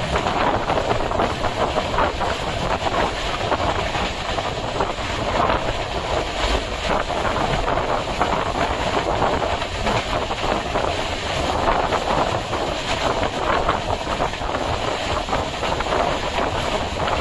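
Indian Railways express train running at speed, heard from on board the coach: a steady rush of wheel and track noise with wheels clacking over rail joints, plus wind noise.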